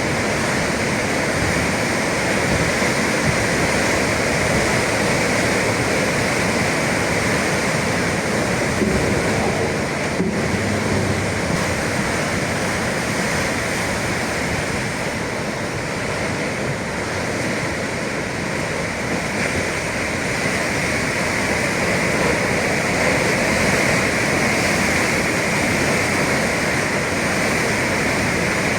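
Sea waves breaking on the shore, a steady rushing noise that swells and eases slowly.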